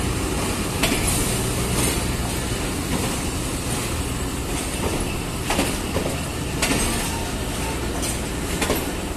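Pakistan Railways passenger train's coaches rolling past at a station with a steady rumble. The wheels clack over rail joints every second or few, some clacks coming in quick pairs.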